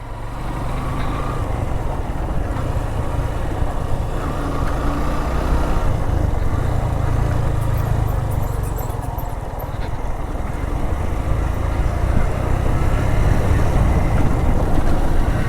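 Motorcycle engine pulling steadily up a steep climb in low gear, under a continuous low rumble.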